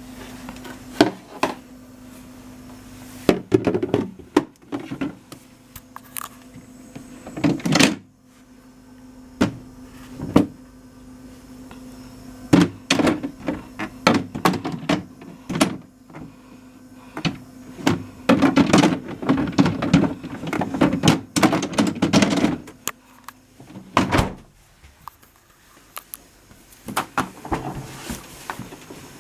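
A SHARP SJ-17W-W two-door refrigerator being handled: its doors, drawers and plastic shelves are opened, closed and moved, giving repeated thunks, knocks and rattling clatter. A steady low hum runs underneath and stops about three-quarters of the way through.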